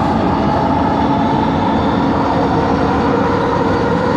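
Interior running noise of an LRT train in motion: a steady rumble with several steady humming tones over it, the weird motor noise reported on this train set.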